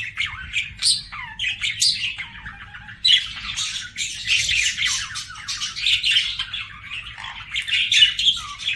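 Budgerigars singing: continuous fast warbling chatter mixed with chirps and short sharp squawks.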